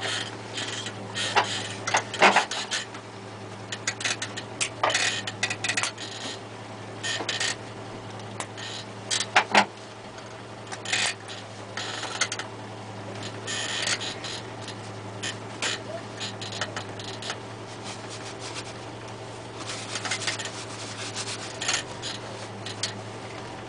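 Peugeot 309 GTi's four-cylinder engine idling steadily, heard from inside the cabin, under frequent irregular rubbing and clicking close to the microphone.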